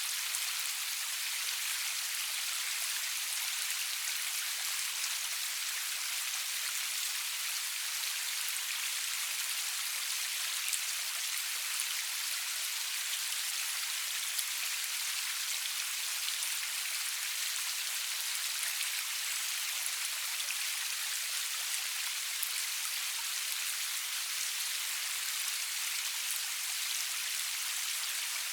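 Steady rainfall: an even hiss of rain with scattered individual drops ticking, no thunder.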